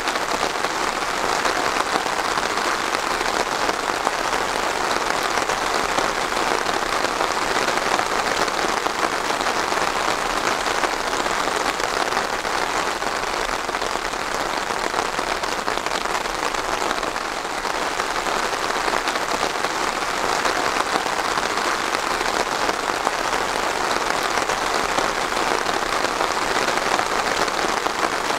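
Steady rain falling on a surface, a dense even patter of drops that holds level throughout.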